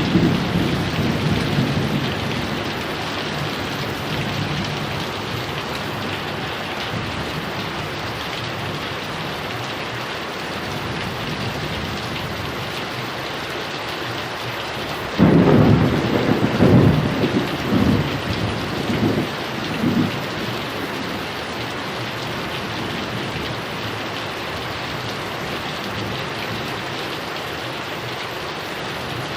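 Heavy rain falling steadily, with thunder: a rumble dies away in the first couple of seconds, then about halfway through a sudden loud thunderclap rolls in several surges for about five seconds before the rain carries on alone.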